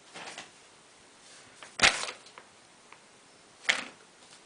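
Handling noises from the small plastic vacuum and its packaging: a faint rustle at the start, a sharp loud click-like scrape about two seconds in, and another short scrape near the end.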